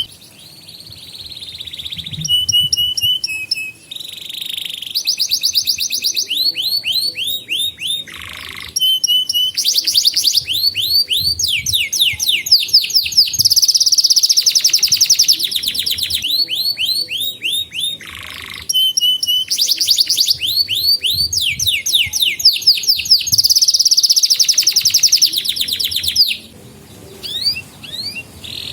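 Domestic canary singing a long song of fast trills and rolls: rapid runs of repeated notes in phrases several seconds long, broken by short pauses. It drops to a few quieter notes near the end.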